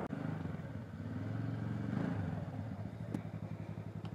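Motorcycle engine running as the bike slows and comes to a stop, easing down to a low idle near the end, with a single sharp click about three seconds in.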